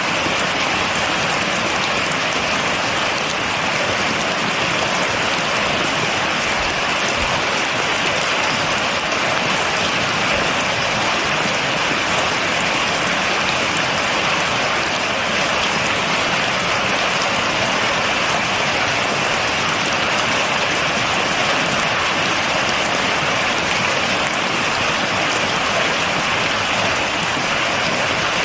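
Steady rain falling, a dense even patter with fine crackle of individual drops, without thunder.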